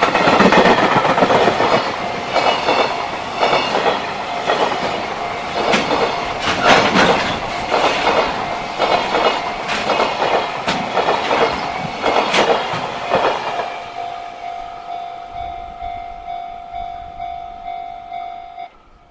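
Container freight train passing close by, its flatcars rumbling with repeated wheel clacks over the rail joints. After the last car goes by, a level crossing alarm rings on alone in a steady pulsing tone for a few seconds, then cuts off suddenly.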